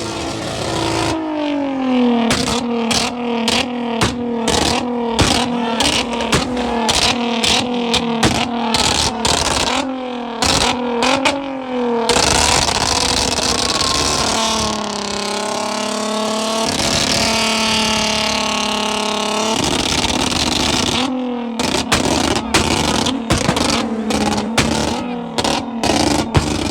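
Car engine revved hard in rapid repeated surges, with a longer stretch held at high revs about halfway through before the quick surges resume near the end.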